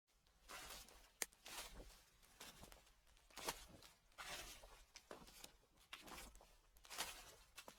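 Footsteps crunching through dry fallen leaves, slow and uneven, with a sharp click a little over a second in.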